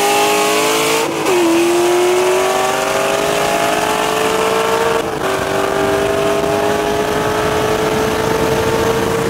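Car engine at full throttle, its pitch climbing steadily as it accelerates, with upshifts about a second in and about five seconds in that each drop the pitch before it climbs again. Road and wind noise run underneath.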